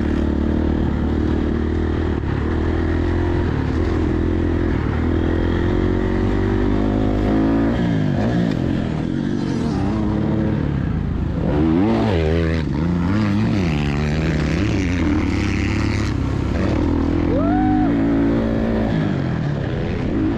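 A dirt bike engine being ridden hard, its pitch rising and falling over and over as the rider works the throttle and shifts gears.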